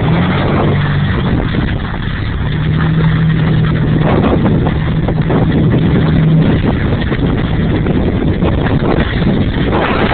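Truck engine running under load off-road, holding a steady pitch for a few seconds, with a constant clatter of knocks and rattles from the rough ride.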